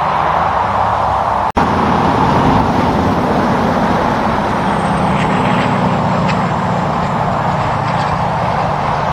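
Tractor-trailer hauling double trailers driving past, its diesel engine running under steady tyre and road noise, with a brief gap in the sound about one and a half seconds in.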